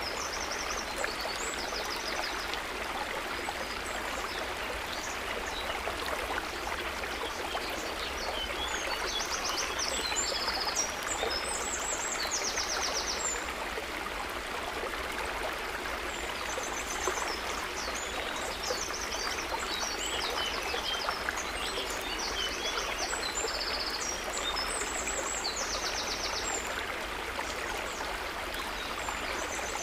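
Natural water ambience: a steady trickling and burbling of water. Short, high trilled calls repeat in clusters above it.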